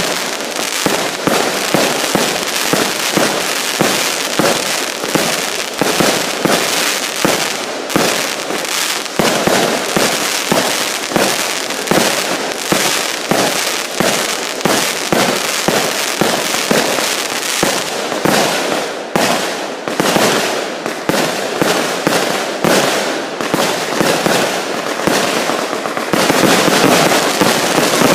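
Fireworks going off in a dense, continuous barrage of rapid bangs and crackles, several a second, getting louder near the end.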